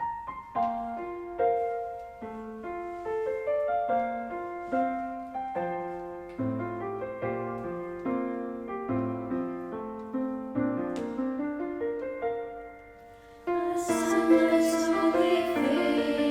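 Piano introduction to a worship song, single notes and chords struck and left to ring. Near the end the full accompaniment comes in and the music gets louder.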